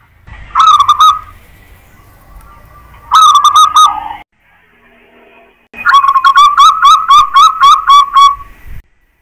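Zebra dove (perkutut) singing: two short cooing phrases, then a longer run of about ten quick, evenly spaced coos.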